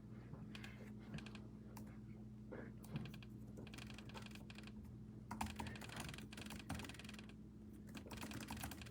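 Typing on a computer keyboard in quick bursts of clicks with short pauses, over a faint steady low hum.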